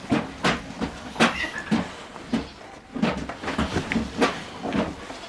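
Irregular knocking and clattering, two or three sharp knocks a second over low thuds, as of objects being handled.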